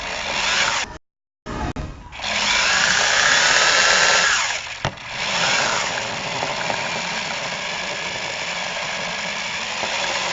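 Parrot quadcopter drone's electric rotors whirring, a steady buzzing whine that briefly drops in pitch and level about halfway through before picking back up. The sound cuts out completely for a moment about a second in.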